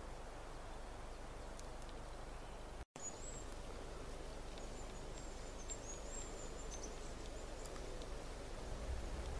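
Quiet forest ambience with a light low rumble, and after a brief break about three seconds in, a small bird giving thin, high, wavering calls for a few seconds.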